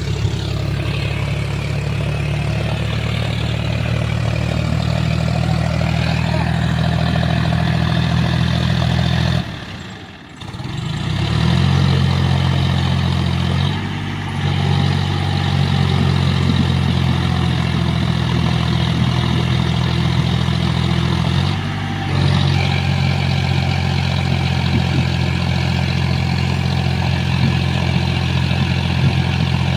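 John Deere 5205 tractor's diesel engine running steadily at a low, even speed. The sound drops out briefly about a third of the way in and shifts abruptly twice later.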